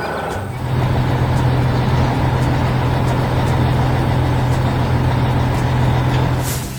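Heavy machine engine running at a steady pitch. It comes in about half a second in and drops away near the end.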